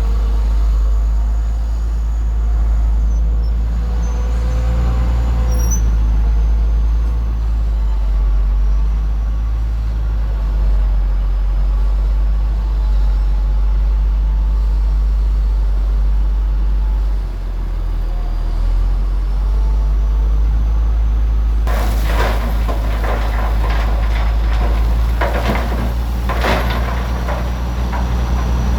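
Heavy diesel engine of earthmoving machinery running steadily with a deep drone and a faint wavering whine above it. About three-quarters of the way in, several seconds of harsh, noisy rattling and hissing cut in over the engine.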